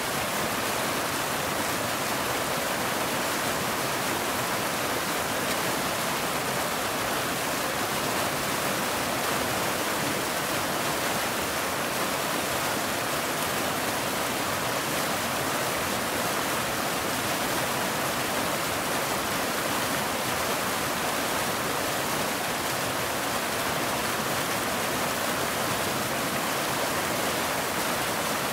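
Waterfall: a steady rush of falling water, even and unbroken, with no bird calls standing out.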